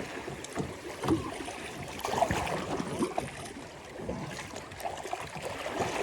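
River water running and rippling around a kayak, with a few light knocks and splashes scattered through it.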